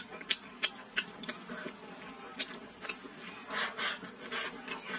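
A person chewing and lip-smacking on a mouthful of chicken-and-potato stew eaten with chopsticks, with many short wet clicks. Longer, louder mouth noises come about three and a half seconds in, as a fresh bite goes into the mouth.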